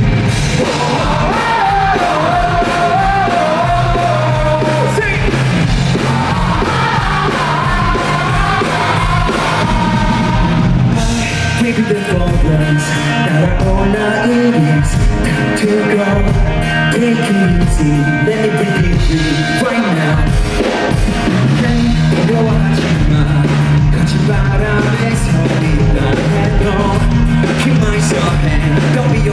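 Live rock band performance: a male lead singer singing over the full band.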